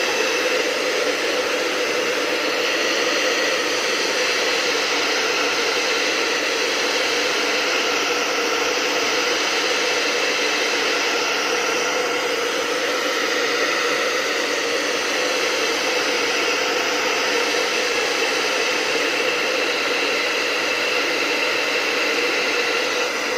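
Hot-air blower running steadily: a continuous airy hiss with a faint steady whine in it. It is heating the glued edge of a speaker's dust cap to soften the adhesive so the cap can be lifted off intact.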